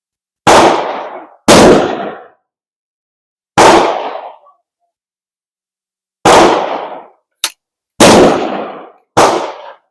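Six loud gunshots at irregular spacing, each with an echoing tail lasting most of a second, and a short sharp click between the fourth and fifth.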